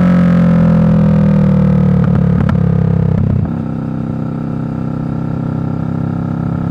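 Kawasaki Vulcan 650's parallel-twin engine through a Delkevic slash-cut exhaust, its note falling steadily as the revs come down, with a few short clicks between two and three and a half seconds in. About three and a half seconds in the sound drops in level and settles to a steadier, lower drone.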